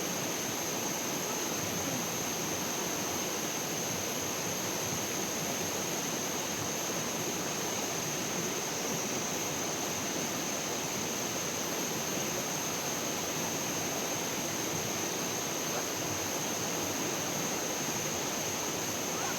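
Steady rushing of flowing water from a stream, with a constant high-pitched whine running over it.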